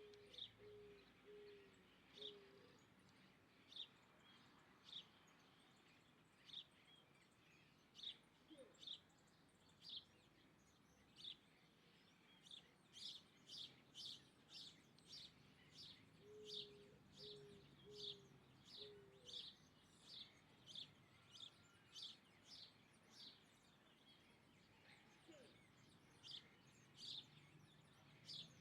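Faint birdsong: a bird repeating short, sharp, high chirps, at first about one a second and then faster, about two a second, in the middle. A lower call of four short notes is heard twice, at the start and about two-thirds of the way through.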